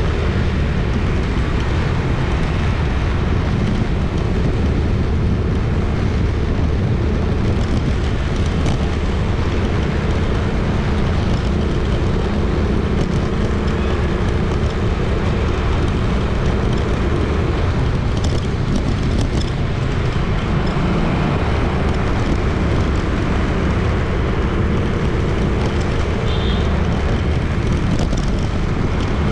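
Busy city street traffic: a steady, dense wash of vehicles passing, with the low rumble of engines and tyres and no single vehicle standing out.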